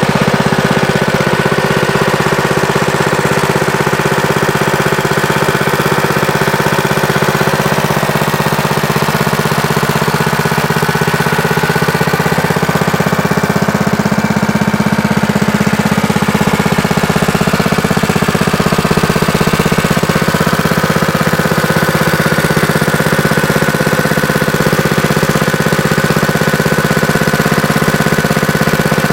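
Single-cylinder 196cc 6.5 hp Honda-clone engine of a Baja Warrior mini bike running steadily at an even speed.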